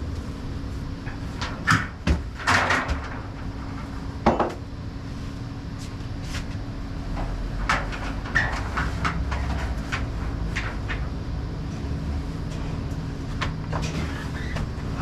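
Ratchet-strap hooks and buckles clanking and knocking as the straps are fitted. The clanks are scattered and irregular, loudest about two to three seconds in and again at about four seconds, over a steady low hum.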